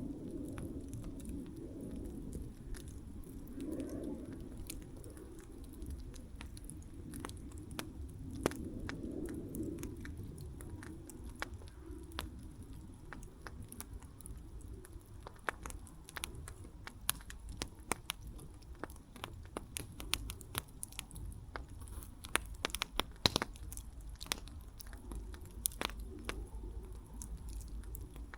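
Wood campfire crackling, with a steady low rumble of flame and frequent irregular sharp pops and snaps that come thicker in the second half.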